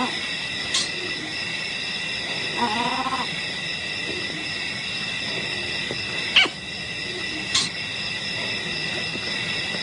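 Steady high drone of an insect chorus. A short animal call comes about three seconds in, and a few sharp chirps sound through the drone.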